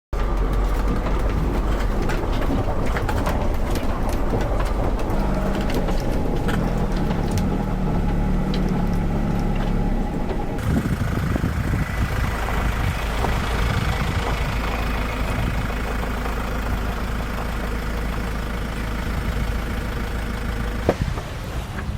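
Vehicle engine running with steady engine and road noise and a strong low hum. The sound changes abruptly about halfway through.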